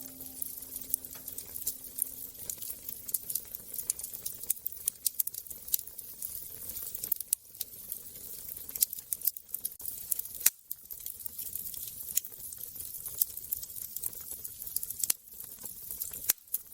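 Wood fire crackling: a dense, irregular run of small snaps and ticks, with a few louder pops.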